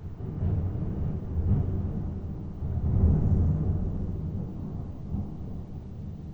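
Rolling thunder: a deep rumble that starts suddenly, swells twice and slowly dies away. It is dry thunder, with no rain falling yet.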